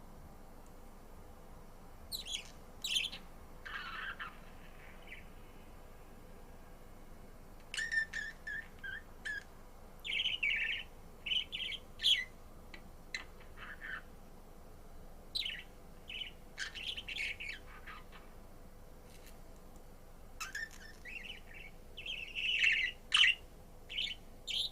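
Budgerigar chirping and warbling in short clusters of quick chirps, with pauses of a second or two between bouts.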